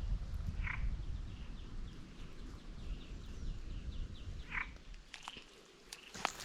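Frog calling: a quick series of short, high, falling chirps, about four a second, with a couple of louder calls among them, over a steady low rumble. A few sharp clicks come near the end.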